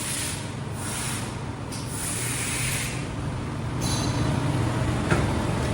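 Pneumatic air hissing in several short bursts from an automatic pickleball hot plate welding machine at work, over a steady machine hum, with a click about five seconds in.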